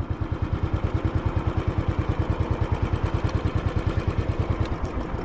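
Royal Enfield Classic 500's single-cylinder four-stroke engine idling, with an even beat of about eight to nine pulses a second.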